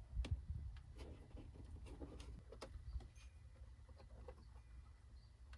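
Faint scattered clicks and rustles of hands handling the microphone wire and plastic trim along the truck's pillar, over a steady low rumble.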